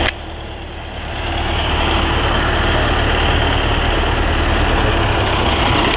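Engine of road-repair machinery running steadily at a low rumble; it is quieter for about the first second, then rises back to full level.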